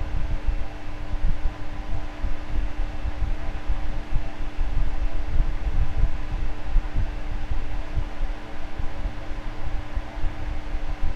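Electric fan running steadily: a constant motor hum over rushing air, with an uneven low rumble from the airflow.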